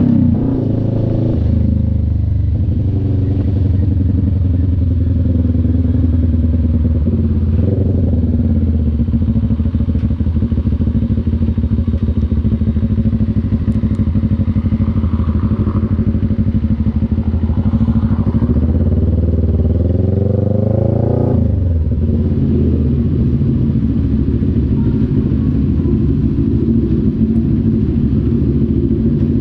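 CF Moto NK400 two-cylinder engine running under way. The revs fall in the first second, hold steady through the middle, climb at about 20 seconds, then drop sharply at a gear change before settling into a steady note.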